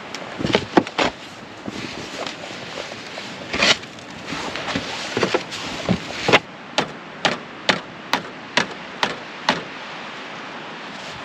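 A series of sharp knocks, irregular at first, then a steady run of about two a second in the second half, over a steady background hiss.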